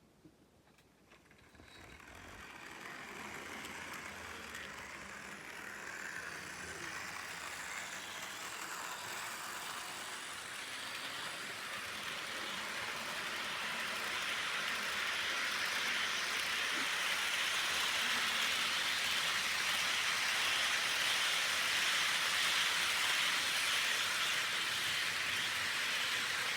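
HO-scale model freight train running on the track: the Lima E444 electric locomotive's motor and the wheels of a long string of four-axle wagons rolling on the rails. It starts about two seconds in, grows louder as the train comes closer, and holds steady over the second half.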